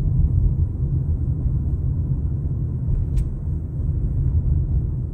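Low, steady rumbling noise with a single sharp click about three seconds in.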